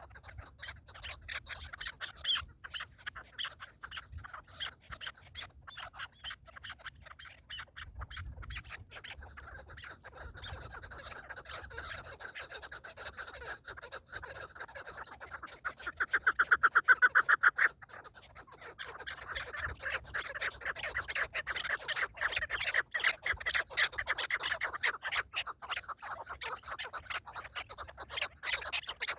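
Partridges calling in long series of rapid clucking notes, with a louder run of fast, even notes a little past the middle, then a short pause before the chattering picks up again.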